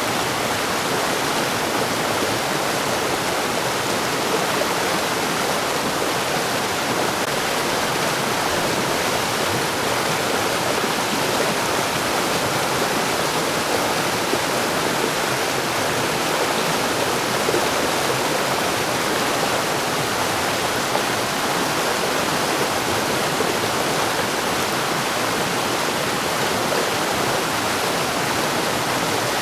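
Mountain stream flowing over rocks: a steady, dense rush of water.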